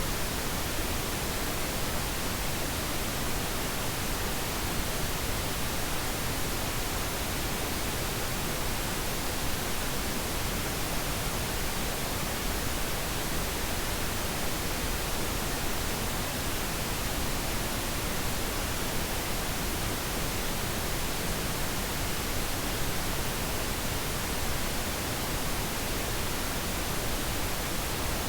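Steady, unchanging pink noise: an even hiss spread across the whole range with no other sound.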